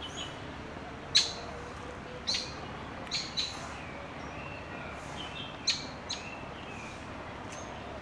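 Wild birds calling: about six sharp, short chirps scattered over several seconds, the loudest about a second in, with a few short whistled notes between them, over a steady low background noise.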